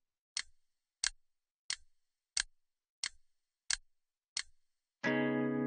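A sharp dry click repeated at an even pace, about one every two-thirds of a second, seven times. About five seconds in, plucked guitar music begins.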